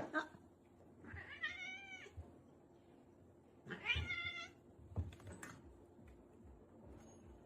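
A domestic cat meowing twice, each meow drawn out for most of a second, with a few light knocks after the second one.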